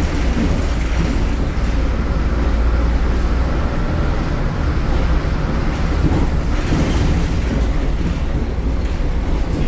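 MAN Lion's City (A76) city bus's diesel engine running loud, a steady low drone with road noise over it that swells briefly near the end.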